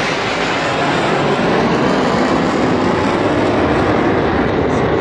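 Jet fighter flying past low overhead: a loud, steady rushing jet-engine roar.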